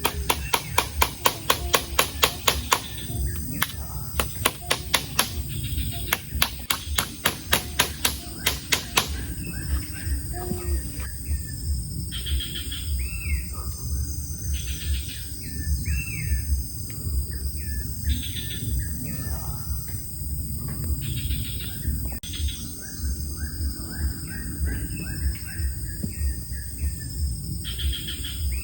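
Forest ambience. For the first nine seconds a sharp clicking repeats about four times a second in three runs; after that, birds give repeated short, gliding calls over a steady low background hiss.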